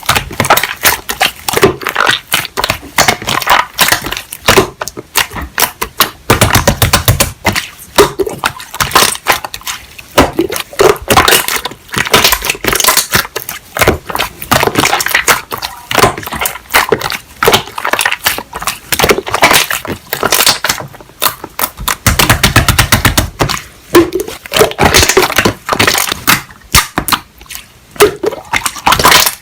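Slime being squished, pressed and stretched by hand, giving a dense, continuous run of crackling clicks and small pops.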